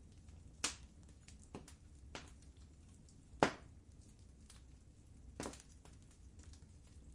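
Wood fire crackling in a fireplace: scattered sharp pops and snaps over a low steady rumble, with the loudest pop about three and a half seconds in.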